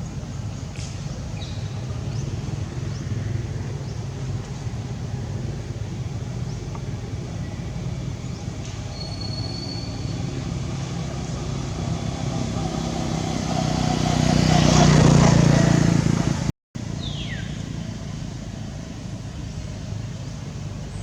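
A motor vehicle engine running with a steady low hum, swelling to its loudest about two-thirds of the way through as it passes close, then dropping away. The sound cuts out for a moment near the end, and a short falling chirp follows.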